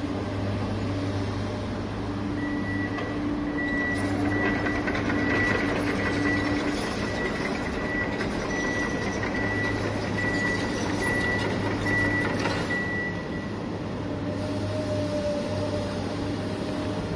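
Truck engine running steadily with a reversing alarm beeping about once a second; the beeping starts a couple of seconds in and stops about three-quarters of the way through.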